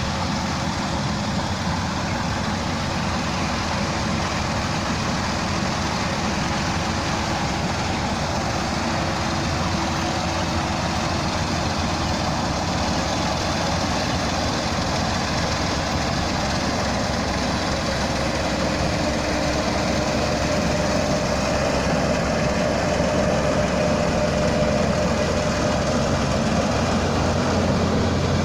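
Rice combine harvester running: a steady, dense mechanical noise from its engine and machinery that gets a little louder in the second half.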